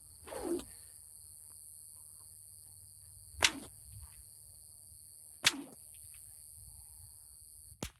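A whip cracking twice, two sharp loud pops about two seconds apart.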